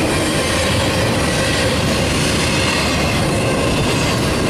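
Double-stack intermodal well cars of a freight train rolling past at speed: a steady, loud rumble of steel wheels on rail, with a faint steady whine over it.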